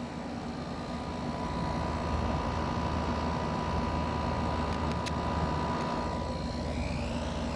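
LG 12,000 BTU air conditioner running, compressor on and fan on low: a steady hum and rush of air with a faint whine that fades about six seconds in. The fan runs smoothly without its former vibration, its loose fan mounting screws now epoxied tight.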